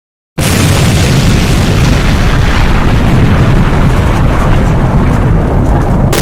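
Storm-force wind buffeting the microphone: a loud, continuous rumbling roar that starts suddenly just after the beginning.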